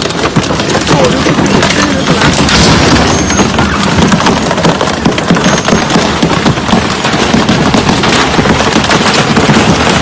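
A heavy machine tearing up a refrigerator, with continuous loud crunching and rapid cracking of metal and plastic being ripped and crushed.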